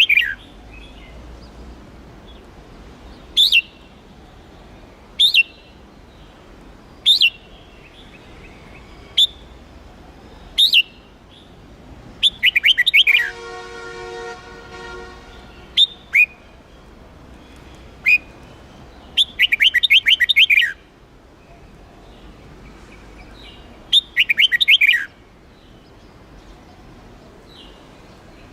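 Red-whiskered bulbul singing: short, sharp whistled phrases about every two seconds, then longer rapid bursts of song. A steady pitched tone sounds for about two seconds in the middle.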